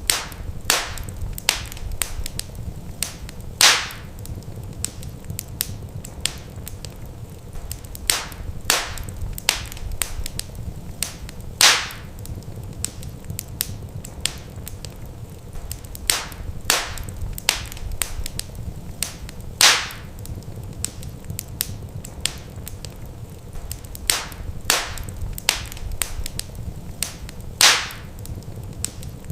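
Wood fire crackling in a fireplace: a steady run of small sharp snaps with a louder pop about every eight seconds, over a low, even rumble of the flames.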